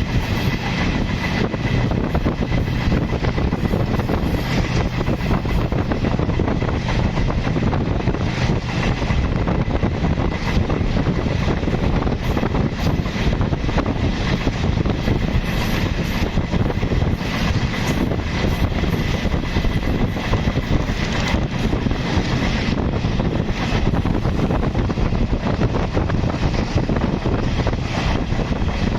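Egyptian Railways passenger train running past close by: a loud, steady rumble of wheels on rail with many short clicks and knocks. Wind buffets the microphone throughout.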